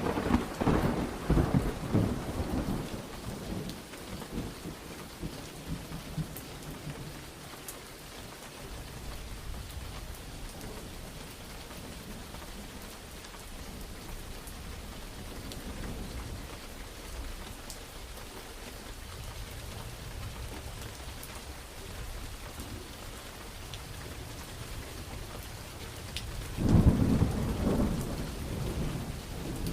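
Steady heavy rain with two thunderclaps: a sharp crack and rumble right at the start that rolls away over a few seconds, and another loud rumble near the end.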